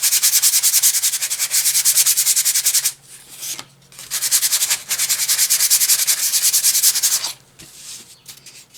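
Fine-grit sandpaper rubbed quickly back and forth on a wooden cutout by hand, in fast even strokes. It goes in two spells, pausing about three seconds in and stopping shortly before the end.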